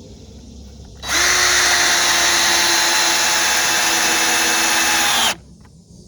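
Power drill running at a steady high whine for about four seconds, starting about a second in, driving a screw into the shelter's 2x4 framing, then winding down and stopping.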